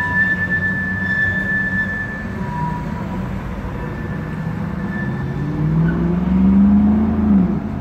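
Freight train wheels give a steady high squeal for the first couple of seconds as covered hopper cars roll over the street crossing. Then a car drives past, its engine note rising and then dropping as it goes by near the end.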